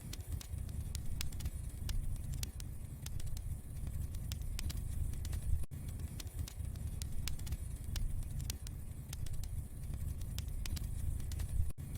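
Wood fire burning in a fireplace: frequent small sharp crackles and pops over a low, steady rumble of the flames.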